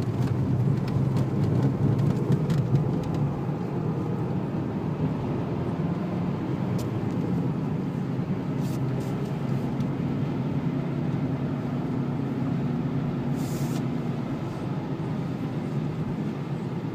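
Renault Laguna wagon's 2-litre turbo diesel running steadily at low speed, heard from inside the cabin, with tyre and road noise underneath.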